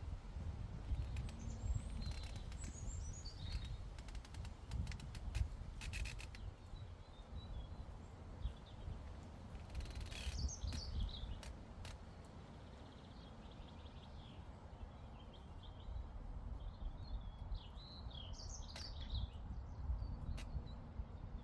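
Small songbirds chirping in short phrases every several seconds over a constant low rumble of breeze, with scattered sharp clicks, most of them in the first half.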